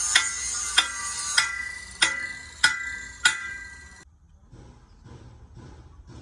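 Steady hammer blows on steel, about one every 0.6 seconds, each with a metallic ring. The sound cuts off suddenly about four seconds in, leaving fainter, duller knocks.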